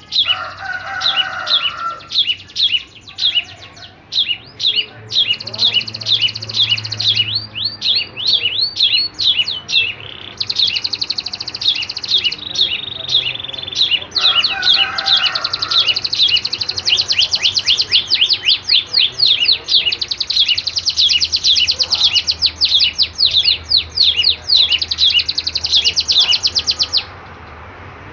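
Two small songbirds singing in duet: fast, high, repeated chirping trills, one run after another with almost no pause, stopping about a second before the end.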